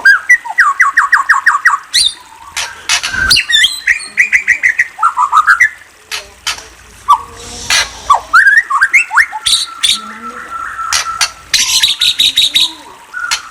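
Murai songbird singing a loud, varied song: fast runs of repeated notes, whistled slides up and down, sharp clicking notes and harsher calls, with a held whistle under pulsing high notes near the end.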